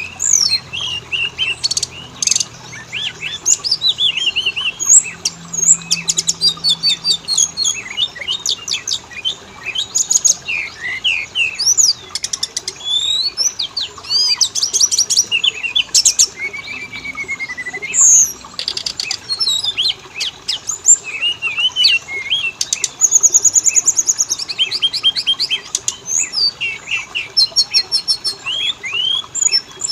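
Oriental magpie-robin (kacer) singing a fast, varied song of gliding whistles, rapid trills and chattering phrases, one after another with hardly a pause.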